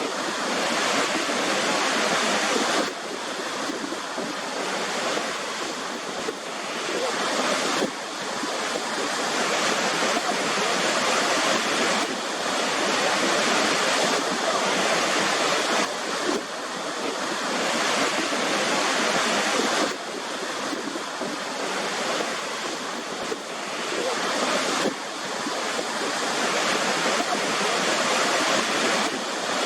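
Waterfall: a steady rush of falling water, with abrupt small shifts in level every four or five seconds.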